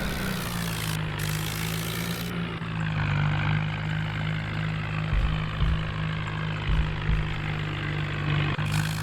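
Farmtrac tractor's diesel engine running at a steady speed.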